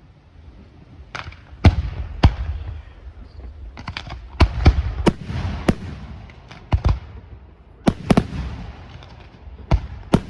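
Fireworks display: sharp explosive bangs at irregular intervals, starting about a second in, some in quick clusters, with rumbling echo carrying on between them.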